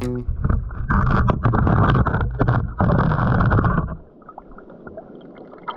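Muffled water splashing and sloshing from people playing in a stream, loud for about four seconds, then dropping much quieter for the last two seconds.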